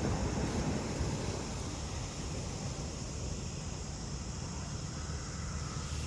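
Seaside ambience: a steady low rumble of wind and ocean waves, with a constant high hum of insects.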